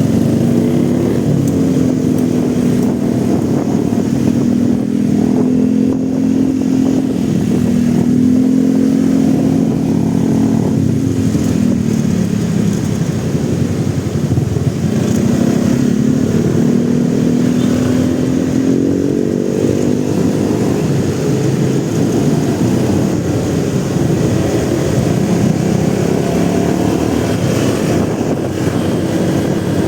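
Motorcycle engine running under way, its note climbing and falling a few times as the rider accelerates and eases off.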